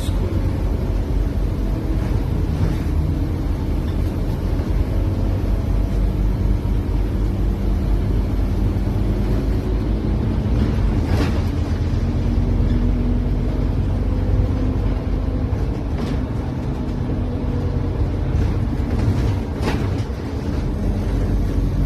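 A Scania OmniCity city bus under way: a steady low engine rumble whose pitch shifts a little around the middle, with a few short sharp knocks or rattles.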